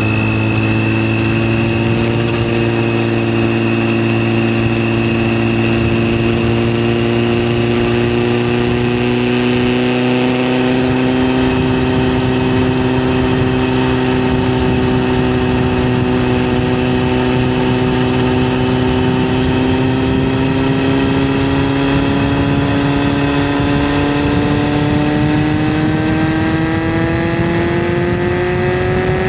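Yamaha FZS600's inline-four engine running under way at a steady cruise; its pitch creeps up slowly, then rises more clearly over the last few seconds as the bike speeds up.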